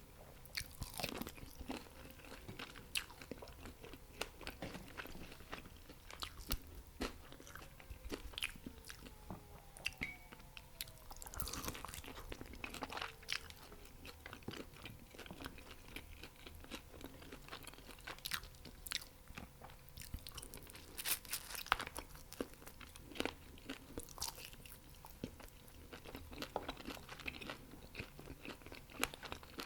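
Close-miked eating: crunching bites and chewing of fried chicken wings and fried rice, a steady run of irregular crisp crackles and wet chewing clicks, with louder bursts of crunching now and then.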